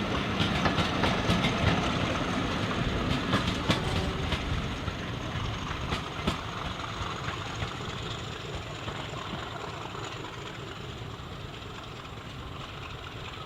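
A train running along the line, its wheels clicking over the rail joints during the first few seconds, then fading steadily as it draws away.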